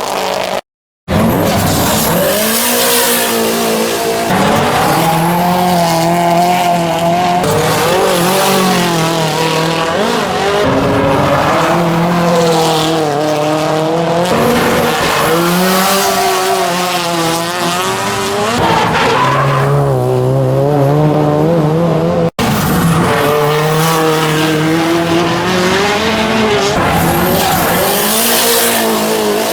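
Nissan SR20 inline-four engines revving hard, the revs rising and falling over and over as the cars are driven, with tyre squeal underneath. The sound breaks off briefly about a second in and again after about 22 seconds, each time picking up with another car.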